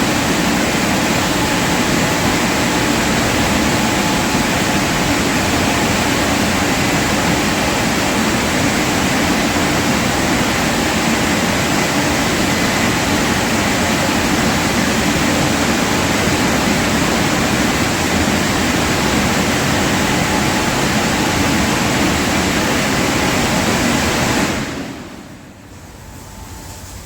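Automatic car wash running on a car with a loud, steady rushing noise heard from inside the car. The noise stops and dies away near the end as the cycle finishes.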